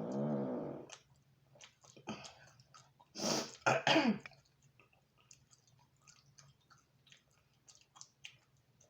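A person eating pizza clears her throat with a cough-like burst about three seconds in, after a short hummed vocal sound at the start; small chewing and mouth clicks fill the rest.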